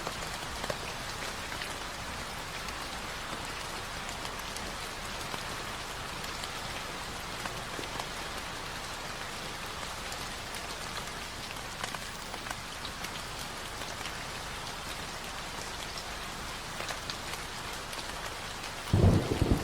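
Steady rain falling, an even hiss of drops, with a sudden loud low rumble near the end.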